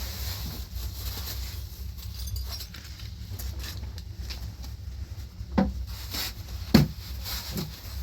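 Rubbing and scraping handling noises, with two sharp knocks a little over halfway through, over a steady low rumble.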